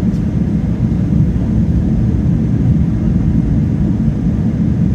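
Boeing 777-300ER airliner heard from inside the cabin: a loud, steady low rumble of its GE90 engines and airflow, with no distinct events.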